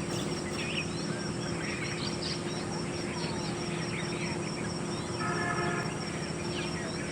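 Small birds chirping repeatedly over a steady low background hum, with a brief horn-like toot about five seconds in.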